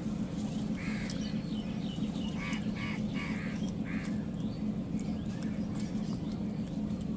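Short, separate animal calls, like quacking fowl, come in clusters over a steady low hum.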